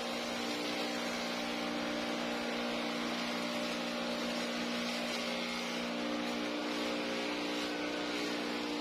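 Motor of a homemade grass chopper running steadily, with an even hum and hiss and no change in speed.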